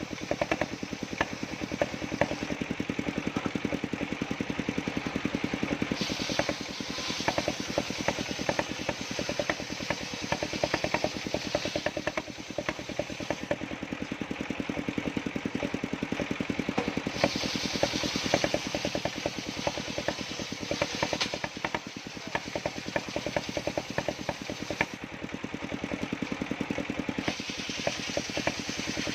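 Engine of a circular-saw sawmill running steadily, a rapid even knocking beat, with a brighter hiss that comes in and drops away several times.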